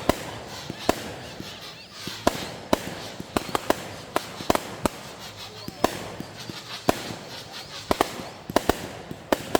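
Fireworks going off in quick succession: a string of sharp bangs and cracks at irregular intervals, about two a second, over a continuous crackling haze.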